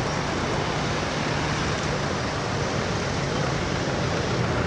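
Steady noise of road traffic, an even rush with a low engine hum beneath it.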